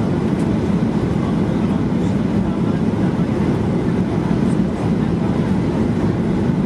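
Steady cabin noise inside a Boeing 737-800 in flight: the engines and the rush of air over the fuselage make an even, unbroken noise, heaviest in the low range.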